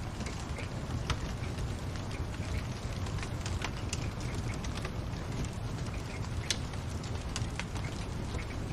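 Crackling fireplace fire: irregular sharp pops and snaps, several a second at times, over a steady low rumble.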